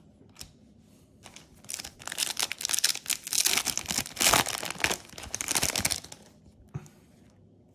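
Yu-Gi-Oh booster pack wrapper crinkling and being torn open by hand, a dense crackling from about two seconds in until about six seconds in, with a few light clicks of handling before it.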